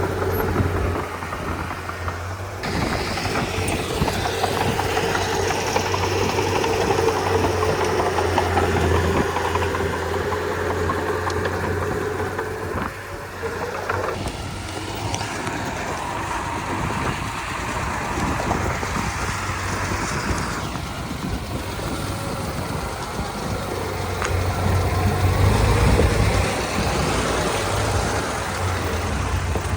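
Diesel engine of a Komatsu D31P crawler bulldozer running under working load while it pushes soil. A steady whine sounds through the first half. The engine grows louder briefly near the end.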